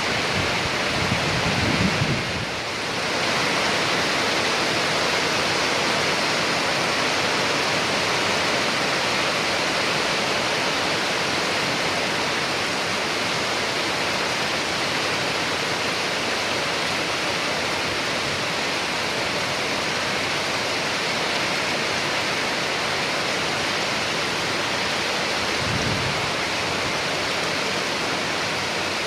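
Steady heavy rain, an even hiss of many drops. Two brief low rumbles come through, one about a second or two in and another near the end.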